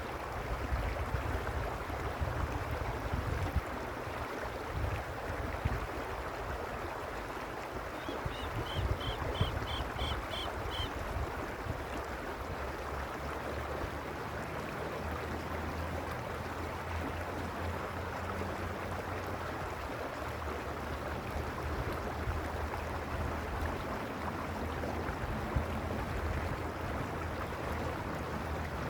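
Arroyo Uspallata, a mountain stream, rushing steadily over its bed. About eight seconds in, a short run of about seven quick high chirps rises over it.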